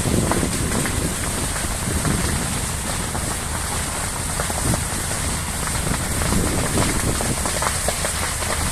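Fire burning, a steady rush with a low rumble and frequent sharp crackles and pops all through.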